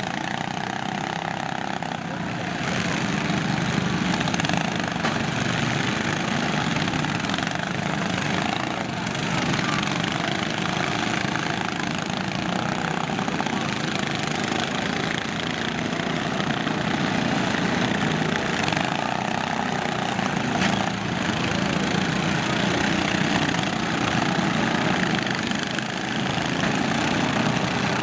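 Several lawn tractor engines running together in a steady din, with a few knocks from tractors colliding.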